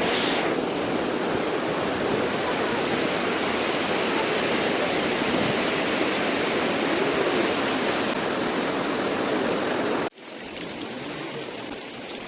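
Rushing water of a spring-fed cascade, a steady, loud hiss. It cuts off abruptly about ten seconds in, leaving a quieter outdoor background.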